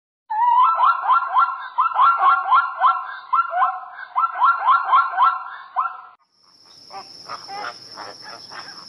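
Zebras barking: a rapid run of high yelping calls, about three a second, that stops about six seconds in. A quieter steady high insect trill takes over near the end.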